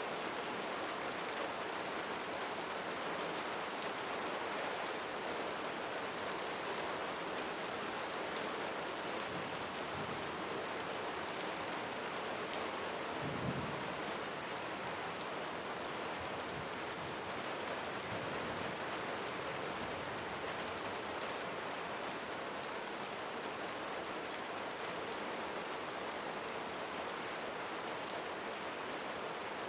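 Steady rain falling, a dense even hiss of drops, with a brief low thump about halfway through.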